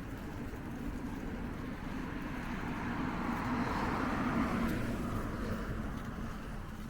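A road vehicle passing: its noise swells to a peak about four seconds in and then fades, over a steady low rumble.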